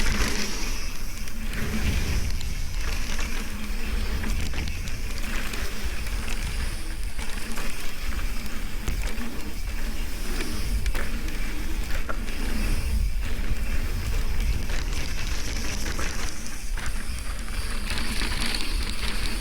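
Mountain bike riding down a rough dirt trail: a steady rumble of tyres and wind on the microphone, broken by frequent rattles and knocks from the bike over bumps.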